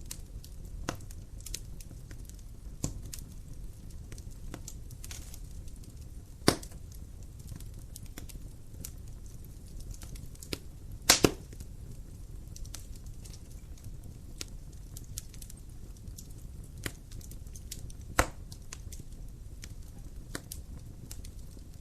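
Wood fire in a fireplace crackling: a low steady rumble with scattered small snaps. There are louder pops about six and a half seconds in, a quick double pop about eleven seconds in, and another near eighteen seconds.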